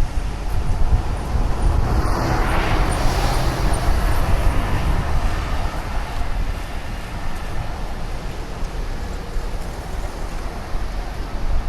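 Wind buffeting the microphone of a camera on a moving bicycle, a steady low rumble. About two to four seconds in, a louder swell of noise passes, like something going by close.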